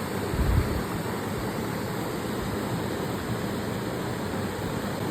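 Waterfall rushing: a steady, even roar of falling water, with one brief low thump about half a second in.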